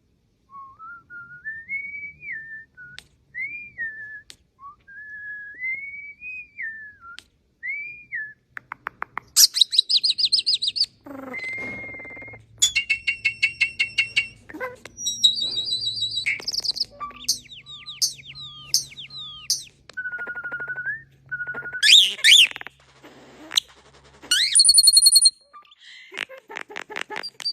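A songbird singing a varied, many-voiced song: a series of whistled notes rising and falling for the first eight seconds or so, then loud rapid trills, buzzy chatter and high notes in quick succession.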